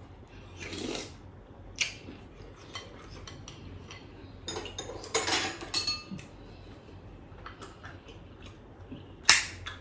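Scattered clinks and scrapes of a spoon against a soup bowl while eating seafood soup, with louder clatters about five seconds in and near the end.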